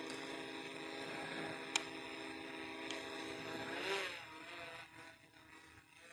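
Camera drone's propellers humming steadily with a buzzing whine; about four seconds in the pitch bends as the motors change speed, then the sound fades away.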